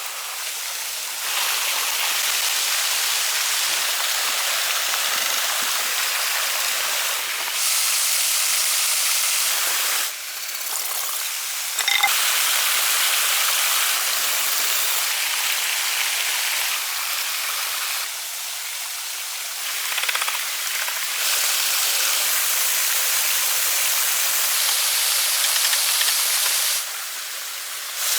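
Rushing water of a waterfall, a steady hiss that jumps louder or softer abruptly several times.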